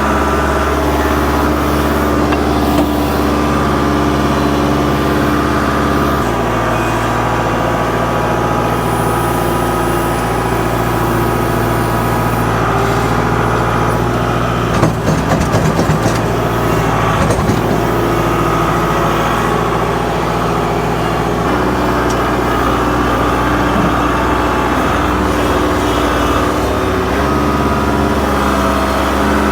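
A heavy engine running steadily, its speed stepping down and back up a few times. There is a short burst of knocks and clanks about halfway through.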